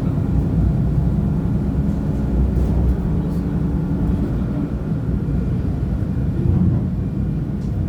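CP UDD diesel multiple unit, heard on board: a steady low rumble of its diesel engine and running gear, with a few faint clicks.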